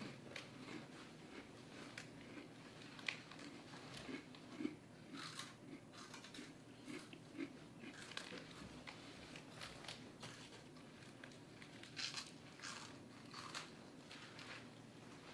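Faint, irregular crunching of someone chewing crunchy snack food close to the microphone.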